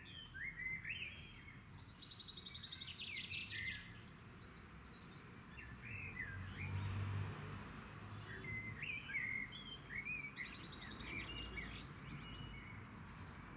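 Small songbirds singing, with short chirps and whistled glides and two quick trills of rapidly repeated notes, one near the start and one near the end, over a faint low rumble in the middle.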